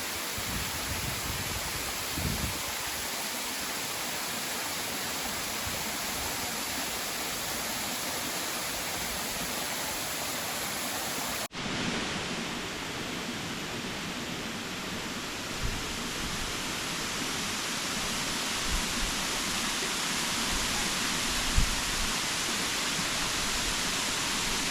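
Waterfall: a steady, even rush of falling water, with an abrupt change in its tone about halfway through where the recording cuts to another shot.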